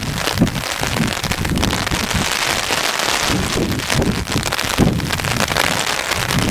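Hail pelting down in a hailstorm: a dense, steady patter of countless small impacts.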